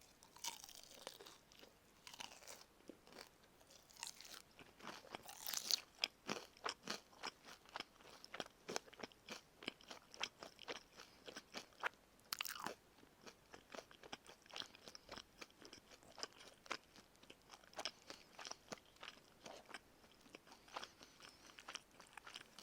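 Close-miked crunching and chewing of karaage, crispy Japanese fried chicken: a few louder crunchy bites, then a steady run of small crackling chews.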